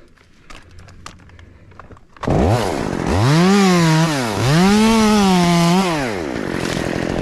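Two-stroke Stihl chainsaw starting up about two seconds in, revved up twice, then dropping back to idle.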